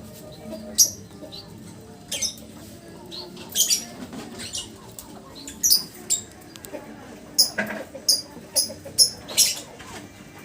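Lovebird giving a dozen or so short, sharp, high-pitched chirps at irregular intervals, coming closer together in the last few seconds.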